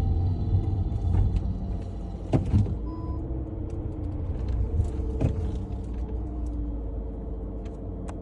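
Volkswagen Polo 6R 1.4 running with a steady low rumble, broken by irregular sharp rattles and knocks, the loudest about two and a half seconds in and again about five seconds in: the weird rattle the owner is trying to trace. A short beep sounds about three seconds in.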